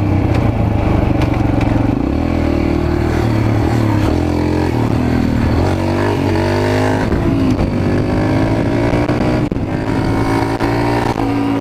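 Mini bike's small engine running under a rider, its pitch rising and falling with the throttle, climbing in a rev about five to seven seconds in.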